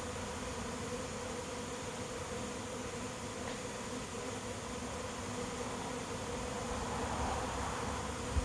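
Honey bee swarm in flight, a steady, dense buzzing of many bees as the swarm arrives and moves into a swarm trap.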